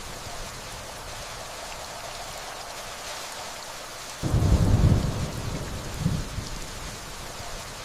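Steady rainfall with a distant thunder rumble. The rumble starts suddenly about four seconds in, is loudest for about a second, then dies away with a smaller swell.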